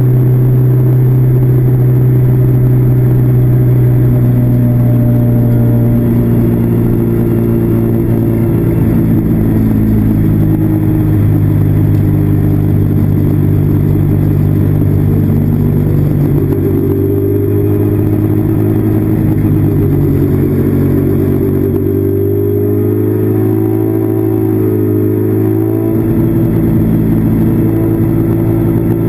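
Classic Mini race car's BMC A-series four-cylinder engine under racing load, heard from inside the cabin. The engine holds a steady high note for the first few seconds, then rises and falls with the throttle, drops for a few seconds near the end and climbs again.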